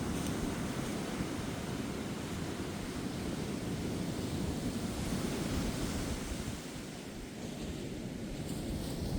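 Ocean waves breaking and washing on a beach, a steady low rumble of surf that eases a little partway through and builds again near the end, with wind buffeting the microphone.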